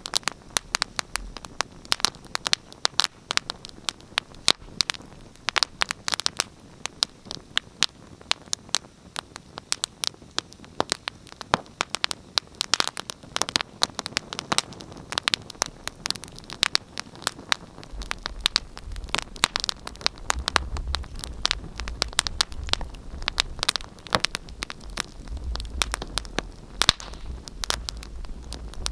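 Wood fire crackling in a fireplace: dense, irregular pops and snaps over a soft hiss. A low rumble joins beneath it about two-thirds of the way through.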